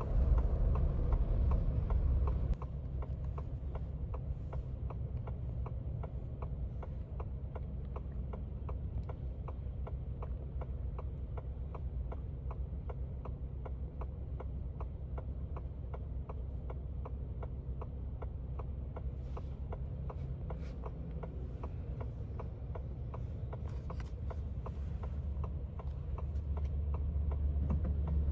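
Turn-signal indicator ticking steadily inside the Ford Bronco's cabin over a low engine hum. The road noise drops about two and a half seconds in and builds again near the end.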